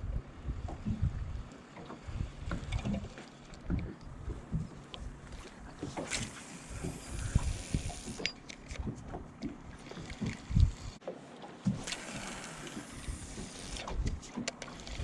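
Wind buffeting the microphone on a small anchored boat, with uneven low rumbling gusts, scattered small clicks and knocks, and two longer hissy stretches partway through.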